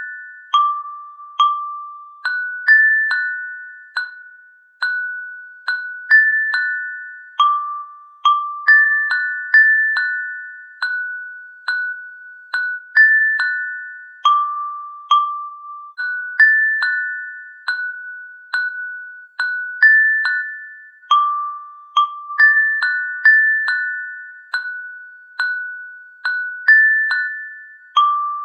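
A slow melody of bell-like struck notes, like a glockenspiel or music box. Each note rings and fades before the next, about one a second, moving among a few nearby pitches.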